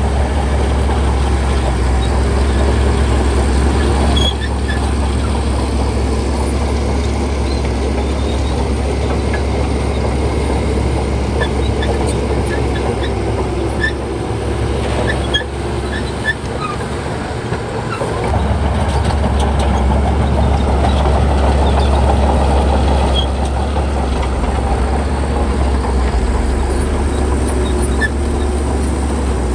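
Bulldozer's diesel engine running hard and steadily, easing off briefly a little past halfway, then picking up again.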